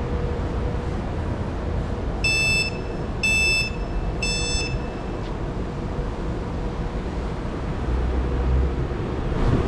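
Three electronic warning beeps on one high pitch, each about half a second long and a second apart, over the steady low rumble and hum of a train standing at a station platform.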